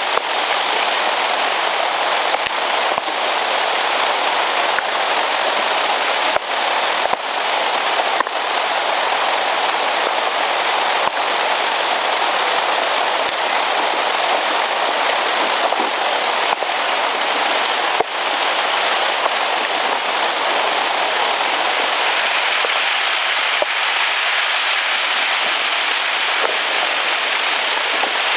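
Steady, loud rain-like hiss in an outdoor field-recorder clip, with a few faint clicks scattered through it.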